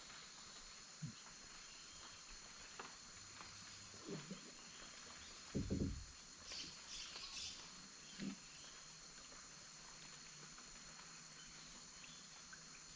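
Steady high-pitched insect chorus of the rainforest, with a few scattered dull knocks and splashes from the canoe. The loudest knock comes a little before the middle, and a brief higher call follows soon after.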